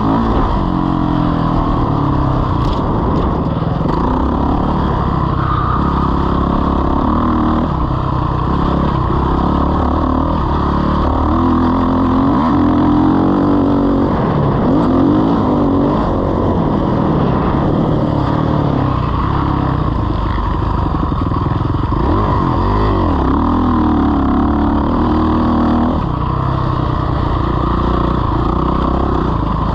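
Motocross dirt bike engine revving hard and easing off over and over, its pitch rising and falling continually as it is ridden around the track.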